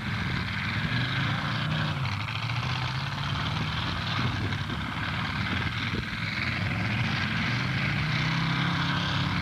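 Demolition derby car engines running and revving, the engine pitch dropping about a second in and climbing again near the end.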